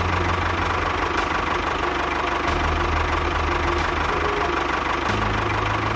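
Tractor engine running with a steady knocking chug; its low hum shifts in pitch a few times.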